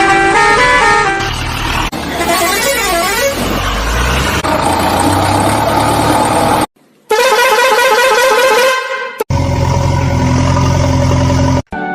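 A run of vehicle horn sound effects: a musical horn playing a short stepped tune, a wavering siren-like tone, then a second horn tune after a brief cut to silence, with a steady low hum between them.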